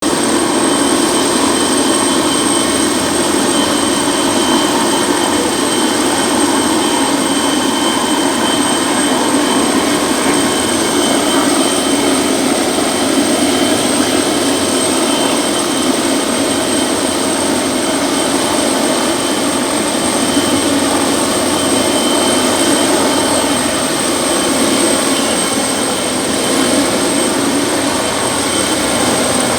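Helicopter running close by: a loud, steady engine and rotor noise with a thin high whine over it.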